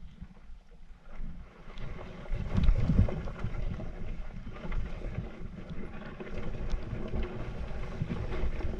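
Low engine rumble from an off-road motorbike being ridden on a trail, mixed with wind buffeting on the microphone; it gets louder about two and a half seconds in.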